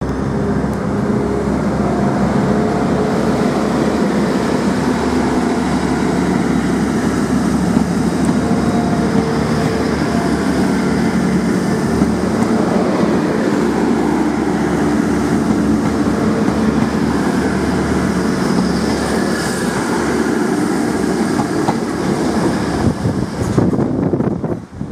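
Class 180 diesel multiple unit running past and drawing away, its underfloor diesel engines working with wheel and rail noise, loud and steady. The sound breaks off suddenly near the end.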